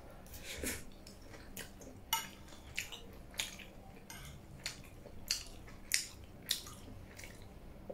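Close-miked chewing of a mouthful of noodles and dried buffalo meat (sukuti chowmein): a series of short, wet mouth clicks and smacks at irregular intervals.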